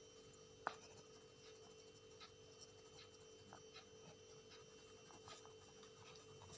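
Near silence with faint scratches and ticks of a pen drawing on paper, one sharper tick less than a second in, over a faint steady hum.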